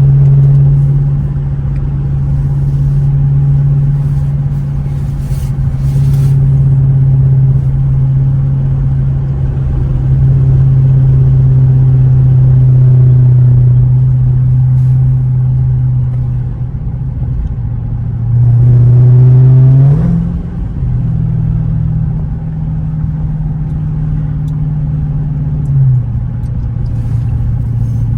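Supercharged 6.2-litre HEMI V8 of a 2023 Dodge Charger Hellcat on its stock exhaust, cruising with a steady low drone. About 19 seconds in it accelerates briefly, getting louder with the pitch climbing, then settles back.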